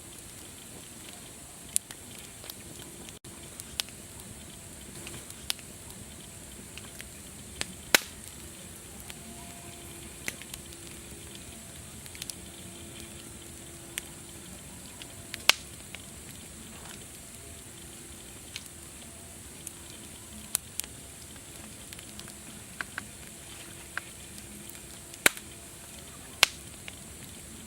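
Wood fire crackling: a steady hiss with irregular sharp pops, a few of them much louder than the rest.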